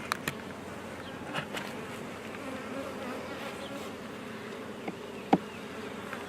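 Honey bees buzzing steadily around an open hive, with a few sharp clicks, the loudest about five seconds in.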